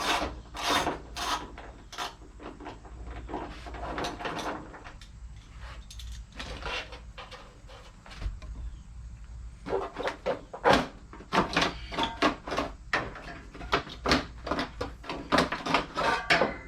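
Irregular clatter and knocks of hand tools and parts during engine teardown work. The knocking is dense at first, sparse for a few seconds in the middle, and then busy again in quick strikes.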